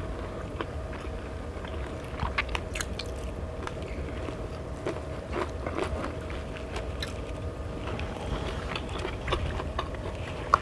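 A person chewing and biting food close to the microphone, with irregular small crunches and clicks, over a steady low hum.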